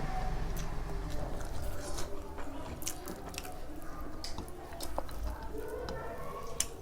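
A person chewing food close to the microphone, with wet mouth clicks and smacks throughout.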